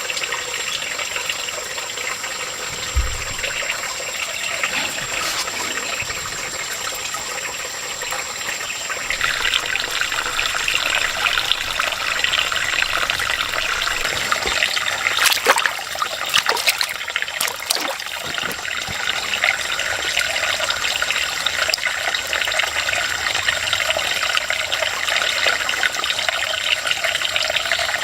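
Water trickling and running steadily, with a thin steady high tone throughout. The water sound grows fuller about a third of the way in, and a few sharp clicks or knocks come past the middle.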